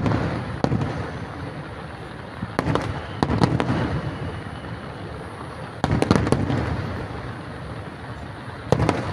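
Aerial fireworks shells bursting in volleys every two to three seconds: sharp booms, a few in quick succession, each trailing off into a low fading rumble.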